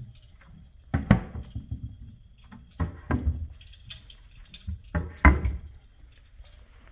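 Wooden cabinet doors with push-to-open latches being pushed shut: three double knocks about two seconds apart, each a thump with a click.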